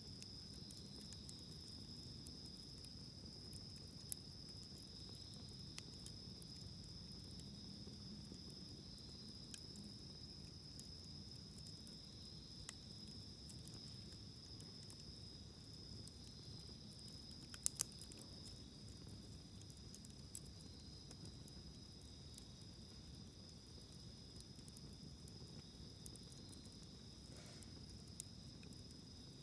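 Crickets chirring in a steady, high, unbroken chorus, with scattered soft crackles and pops from a wood campfire; a sharp double pop comes about eighteen seconds in.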